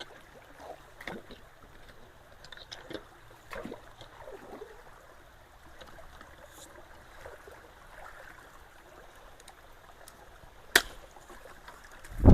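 Creek water flowing and trickling through a culvert, with scattered small splashes and knocks. A single sharp knock comes near the end, followed by a loud low thump.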